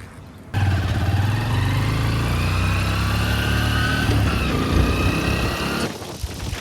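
Honda XR150L's single-cylinder four-stroke engine running steadily while under way. It starts abruptly about half a second in, its note shifts a little past the middle, and it drops away near the end.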